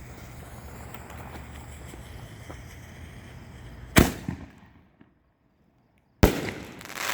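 Consumer firework mortar shell: a sharp launch bang about four seconds in, then about two seconds later a second, louder-lasting bang as the shell bursts, its sound swelling again just at the end.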